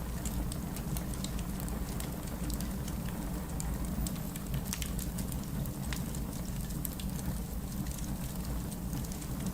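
Steady rain with a low rumble, mixed with the crackle of a wood fire: many small sharp pops scattered throughout.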